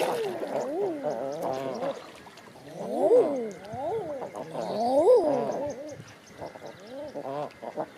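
Several birds calling over one another, with repeated low calls that each rise and fall in pitch. The calls swell about three seconds in and again about five seconds in.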